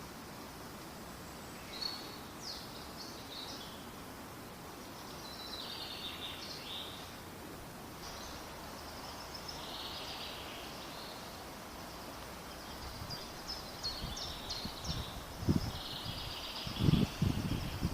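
Small birds chirping and trilling, short high calls that come again and again over a steady outdoor hiss. Several low thumps come in near the end.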